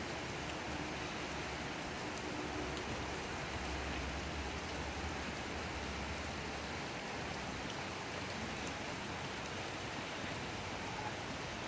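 Steady rainfall, an even hiss with scattered faint drop ticks. A low rumble underneath dies away about two-thirds of the way through.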